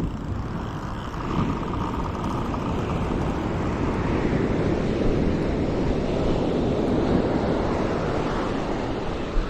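Ocean surf: a wave breaking and rushing up the beach, building over a few seconds and easing off near the end.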